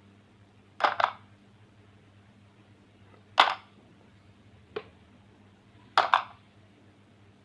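Sharp clacks of hard objects being set down or knocked together, four in all: a quick double knock about a second in, a single one past the three-second mark, a fainter tap, then another double knock.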